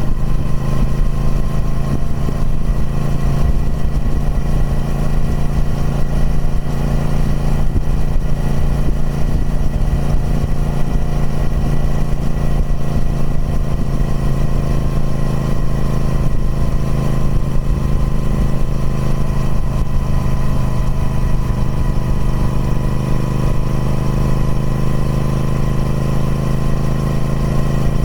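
Triumph Speed Twin 1200's parallel-twin engine running through its stock exhaust, holding a steady, even engine note.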